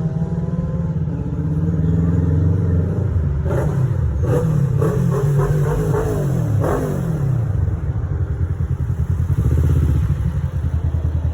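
Kawasaki Ninja 650's parallel-twin engine running through a Mivv Oval full-system exhaust: it idles, is blipped several times with the pitch rising and falling in the middle, then drops back to a steady idle.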